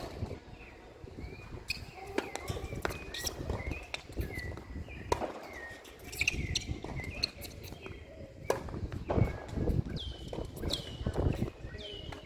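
Footsteps and scattered knocks and ball bounces on a tennis court, with a run of short high squeaks that fall in pitch in the last few seconds.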